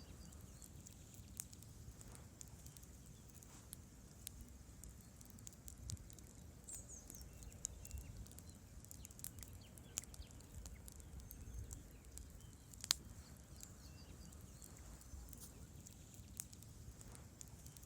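Wood campfire burning: logs crackling with sharp, irregular pops over a low rumble of flames, one pop standing out louder about thirteen seconds in.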